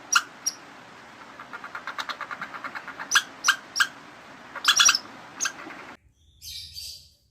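Short, high chirps or squeaks from a small animal, with a quick run of rapid chirps about two seconds in and clusters of sharper squeaks after. The sound cuts off abruptly about six seconds in, followed by a brief hiss.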